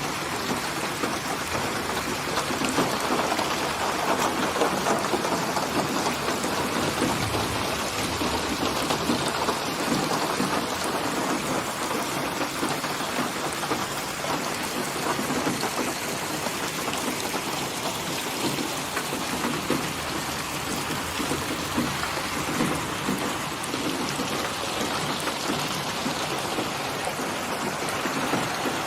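Steady rain falling and pattering without a break, with a brief low rumble swelling and fading about a quarter of the way in.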